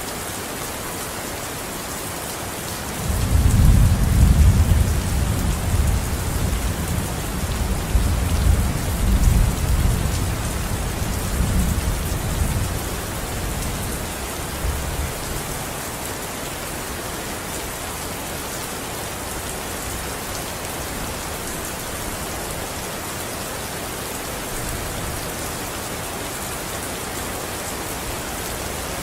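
Steady heavy rain hissing, with a long rolling rumble of thunder that starts about three seconds in and fades out over roughly ten seconds.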